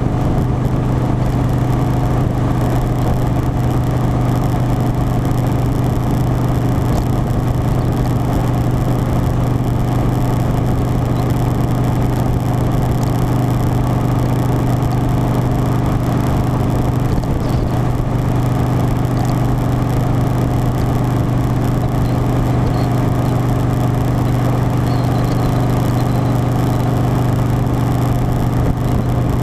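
Harley-Davidson Softail Standard's V-twin engine running at a steady cruise, one unchanging engine note with a constant rush of noise beneath it.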